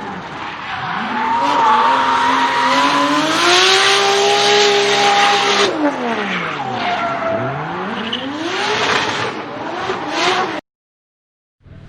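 A car engine revved hard: its pitch climbs and holds high, drops sharply about six seconds in and climbs again, over loud tyre noise, as in drifting. The sound cuts off abruptly near the end.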